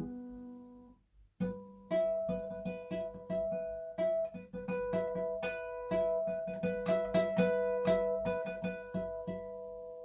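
Six-string Sire A3 acoustic guitar: a strummed chord dies away, then after a short pause a run of quick picked notes plays, with the last note left ringing near the end.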